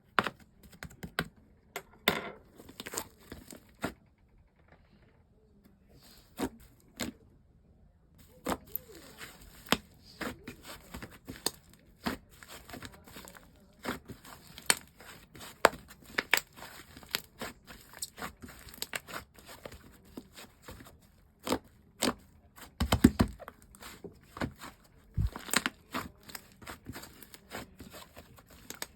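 Hands squishing and stretching slime, making irregular sticky pops, clicks and crackles. They come sparsely at first, pause briefly, then run thick and fast from about eight seconds in.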